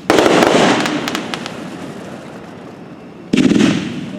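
Red Rhino Roadshow fireworks cake firing: a sudden loud bang with crackling that fades over a few seconds, then another bang about three seconds later.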